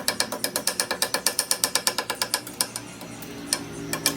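Rapid, evenly spaced metallic ticking or tapping with a ringing tone, about seven strikes a second, stopping about two and a half seconds in; a steady mechanical hum follows.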